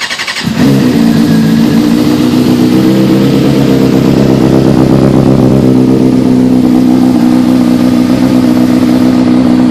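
A 2009 Honda CBR600RR's inline-four engine, breathing through an Arrow muffler and midpipe, cranks briefly and catches, then idles steadily. The engine is still cold, which makes it a little louder.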